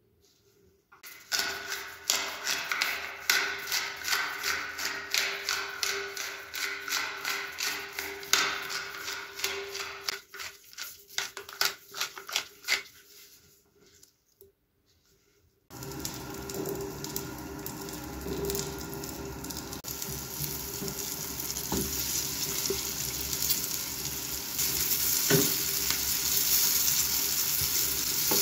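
A run of quick, uneven rustling strokes as a gloved hand works over a platter of fried meat pieces and chopped chives, stopping for a brief hush. About halfway in, flour-dusted bread slabs start sizzling as they fry in oil in a pan, the sizzle growing louder toward the end.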